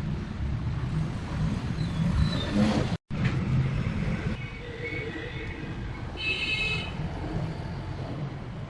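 Restored old generator engine running steadily, its firing pulses making a dense low beat, with a brief break about three seconds in.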